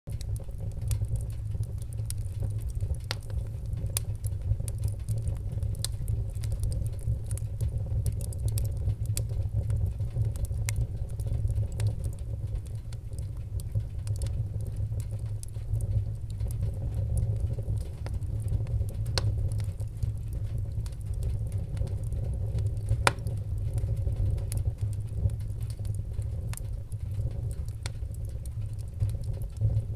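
Wood fire in a fireplace crackling, with frequent sharp pops over a steady low rumble of the flames; one pop about two-thirds of the way through is louder than the rest.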